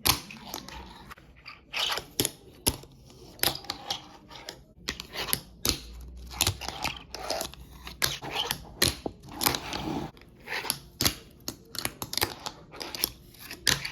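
Fingerboard on concrete: the wooden deck and metal trucks clacking down in an irregular run of sharp clicks as tricks land, with maple wheels rolling and trucks scraping the concrete between them.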